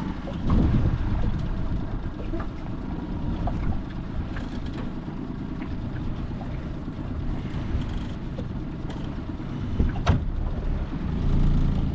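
Steady low rumble of a vehicle in motion, with a few faint clicks and one sharp knock about ten seconds in.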